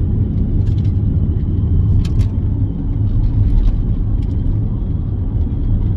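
Steady low rumble of a car in motion, with a few light clicks.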